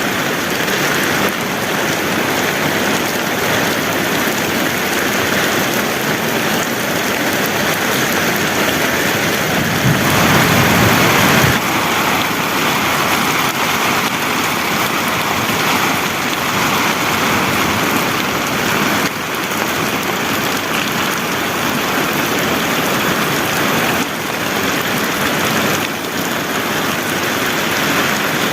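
Heavy rain falling steadily, with a louder, deeper swell lasting about a second and a half around ten seconds in.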